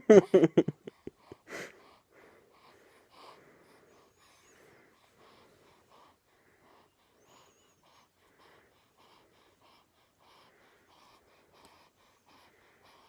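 A baby's voice: a few loud squealing babbles in the first second or so, then quiet, quick, even breaths, about two a second, with a slight wheeze.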